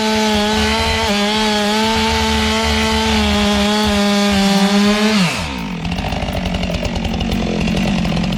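Chainsaw running at full throttle with a steady high whine. About five seconds in the throttle is released and the pitch falls quickly, and the saw runs on lower and rougher.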